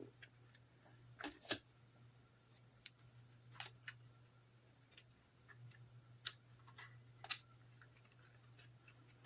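Small plastic model parts handled and fitted into place by hand: scattered light clicks and taps, over a steady low hum.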